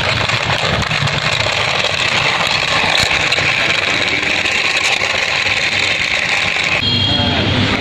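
Steady, loud vehicle-like running noise, with a high whine coming in near the end.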